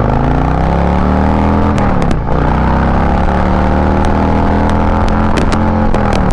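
Motorcycle engine accelerating, its pitch climbing, dipping at a gear change about two seconds in, then climbing again until another shift near the end.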